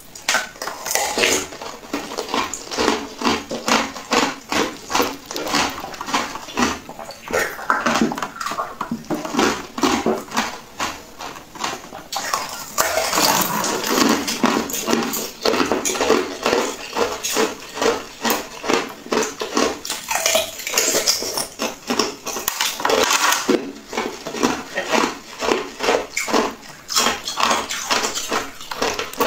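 Close-miked eating of soft green jelly: wet chewing, squelching and sticky mouth smacks in a dense, uneven run of about three clicks a second.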